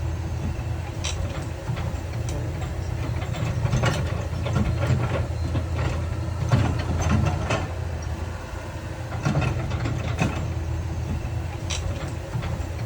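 Heavy diesel earthmoving machinery running steadily, with frequent sharp knocks and clatter of rock and steel.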